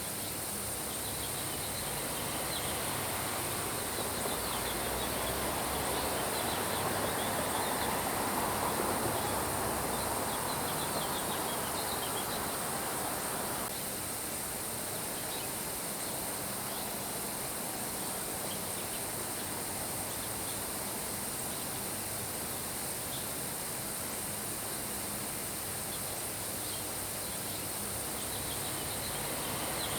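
Steady rain with faint, scattered bird chirps. A louder patch of rain noise swells over several seconds and cuts off suddenly about fourteen seconds in.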